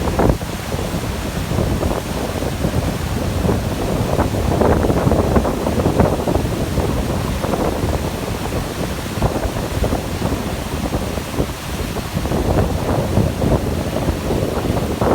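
Gusty wind buffeting the microphone: a dense, low rushing noise that swells and eases, loudest around the middle.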